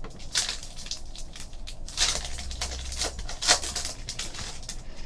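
Foil trading-card pack wrapper crinkling and cards being handled, a string of short crackles.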